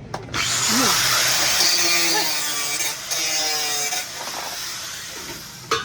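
A power tool grinding or cutting into material: a harsh, hissing noise that starts abruptly, runs strongly for about four seconds, then drops to a lower level.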